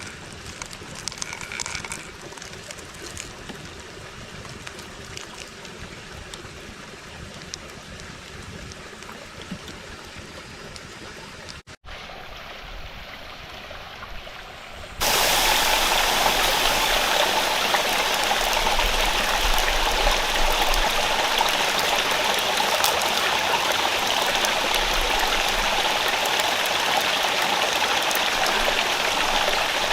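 Rainforest stream rushing over rocks, heard faintly with scattered small clicks in the first half, then after a cut about halfway through suddenly loud and close, a steady even rush.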